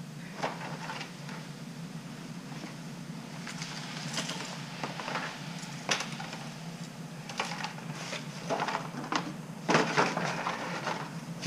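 Plastic model-kit sprues, bagged parts and a cardboard box being handled and packed away: scattered rustles and light clatters over a steady low hum.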